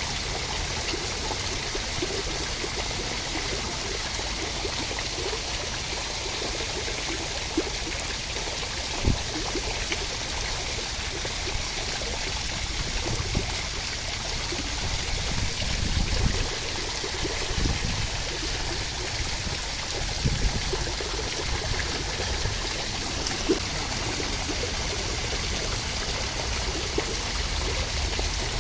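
Steady rush of water, with a few brief louder drops or splashes standing out now and then.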